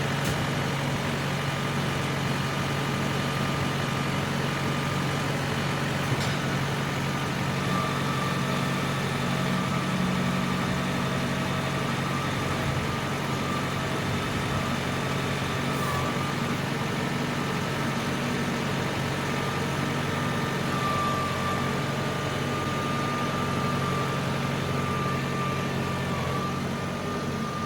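Farm tractor engine running steadily, with a thin high whine over it.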